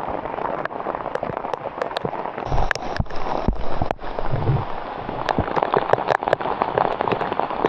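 Heavy hail pelting down: a dense patter of hailstones striking all around, with many sharp, separate cracks standing out.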